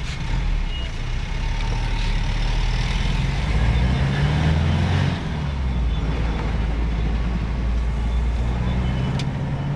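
Vehicle engine heard from inside the cabin, its pitch rising as it accelerates, then dropping suddenly about five seconds in, as at a gear change. It holds steady, then begins to rise again near the end.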